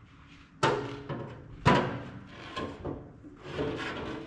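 Sheet-metal clanks and scraping as the Traeger's pellet hopper and auger assembly is handled against the grill body: two sharp, ringing clanks about half a second and a second and a half in, then lighter knocks and rubbing.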